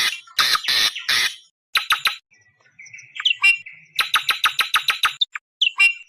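Awar-awar bird lure call: a quick run of harsh screeching calls, then softer clicks and whistled notes, then a fast chattering series of sharp notes about a second and a half long.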